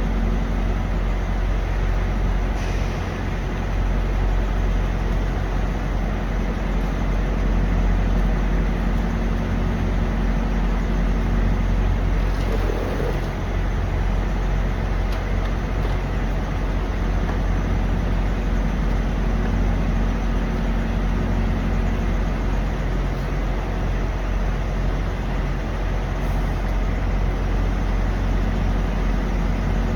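Steady low drone of idling diesel truck engines, a constant hum with no change in pitch.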